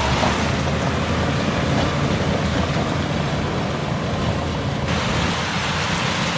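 Heavy diesel engine of earth-moving machinery running steadily under work. About five seconds in, a noisier, brighter layer joins it.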